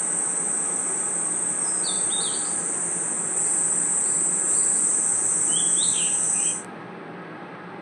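Night insect chorus of crickets: a steady, loud, high-pitched trilling, with a few short falling chirps twice in the middle. About six and a half seconds in, the high trilling cuts off suddenly, leaving a fainter background hiss.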